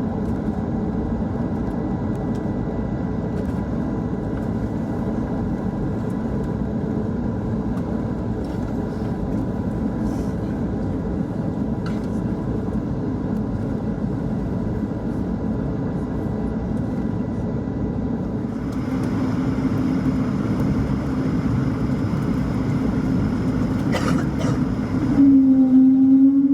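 Steady cabin rumble inside an Airbus A220-300 from its engines and airflow. About three-quarters of the way in, a faint high whine and a low hum join. Near the end the hum grows louder and rises slightly.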